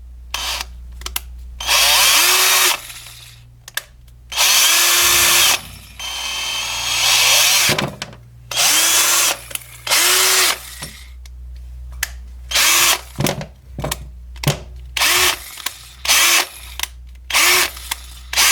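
Parkside cordless drill motor run in repeated bursts as the trigger is pulled and released, each burst spinning up and winding down. About six seconds in, one run climbs gradually in speed, and the later bursts are short and quick. This is a test of the repaired trigger speed control, which is working properly.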